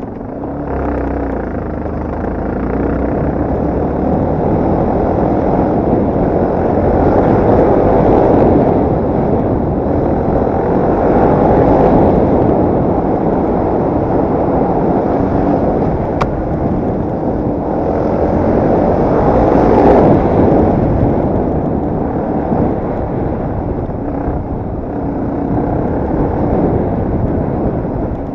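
Yamaha TT250R Raid's single-cylinder four-stroke engine running while riding, the engine note swelling and easing every few seconds as the throttle is worked.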